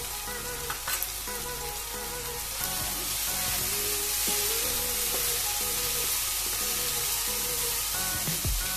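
Onion-tomato masala sizzling in hot oil in a non-stick kadai while it is stirred with a spatula; the sizzle grows louder about two and a half seconds in.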